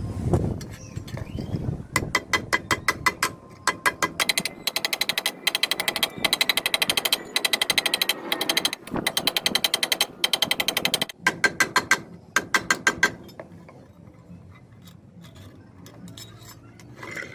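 Metal struck rapidly and evenly, about six ringing blows a second, in runs with short breaks, stopping about three-quarters of the way through.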